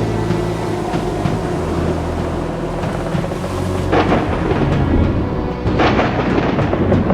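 Thunder over sustained low, dark music, with two loud crashes: one about four seconds in and another near six seconds.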